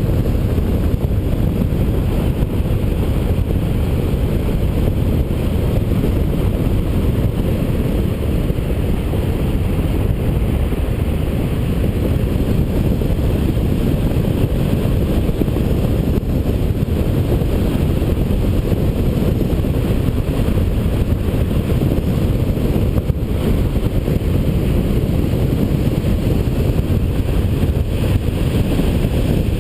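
Airflow buffeting the microphone of a camera on a hang glider in flight: a loud, steady, deep rush of wind that does not let up.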